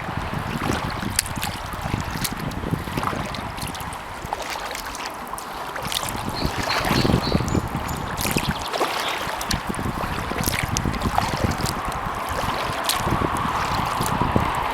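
Kayak paddling: the paddle blades dip and drip water with scattered small splashes, over wind buffeting the microphone.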